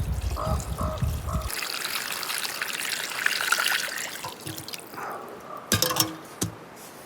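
Water pouring and trickling for a few seconds, after a low rumble at the start, with a couple of sharp knocks near the end.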